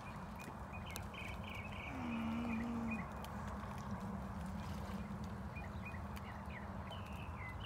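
Small birds chirping in quick runs of short notes near the start and again near the end, over a steady outdoor rush. A brief low hum sounds about two seconds in.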